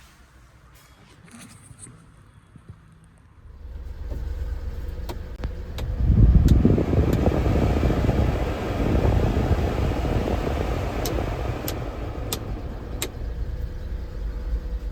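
2000 Mitsubishi Minicab kei truck's small engine running: the low rumble comes in abruptly about three and a half seconds in and grows louder about six seconds in, with a few faint sharp clicks over it.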